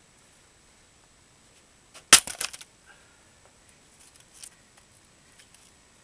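An axe strikes a dried larch firewood round once, hard, about two seconds in, with a brief clatter of wood right after. A few faint knocks follow a couple of seconds later.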